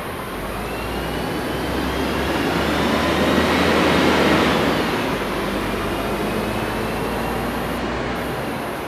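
A vehicle passing by. The noise builds to a peak about four seconds in and then fades, with a faint whine that drops in pitch as it goes past.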